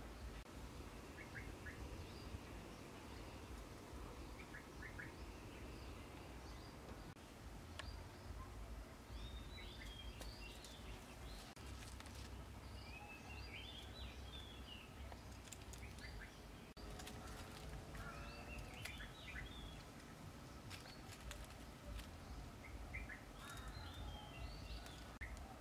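Faint outdoor ambience with birds chirping: short runs of quick, sweeping chirps every few seconds over a low steady background rumble, with an occasional faint click.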